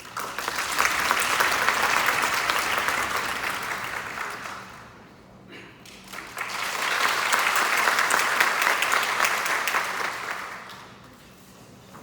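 Many hands clapping in two swells of about four to five seconds each, each one rising quickly and then fading away, with a short lull between them.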